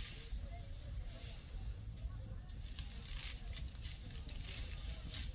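Dry wheat stalks crackling and rustling as they are harvested by hand, many small irregular snaps over a low rumble.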